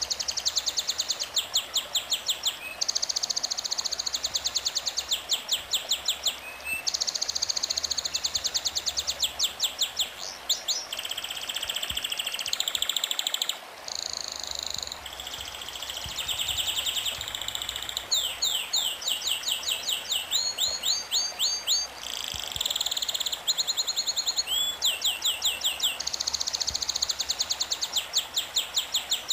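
Songbirds singing: fast trills of high, quickly repeated chirps in phrases of a second or two, one after another.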